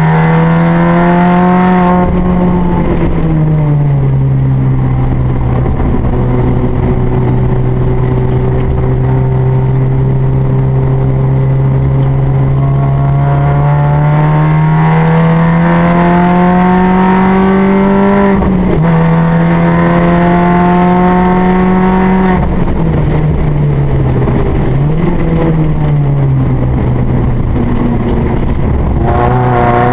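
Mini race car's engine running hard at full throttle, its pitch climbing slowly through the revs and dropping sharply several times at gear changes or lifts, with a brief dip and blip of the throttle about three quarters of the way through.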